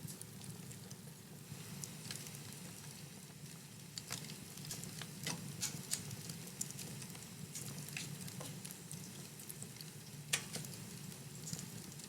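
Wood fire burning in a fireplace, crackling with scattered sharp pops over a steady low rumble. The loudest pop comes about ten seconds in.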